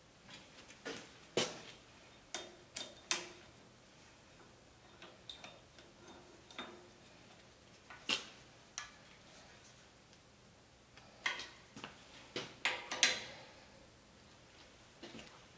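Scattered sharp metal clicks and taps of a hex driver turning and seating the bolts of steel hold-down clamps on a magnetic chuck, with a cluster of them near the end.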